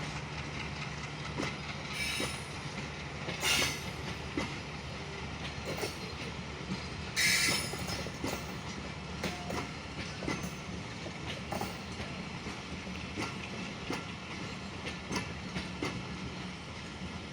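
Passenger train coaches rolling past with a steady rumble and the clickety-clack of wheels over rail joints. Two brief screeches come through, about three and a half and seven seconds in.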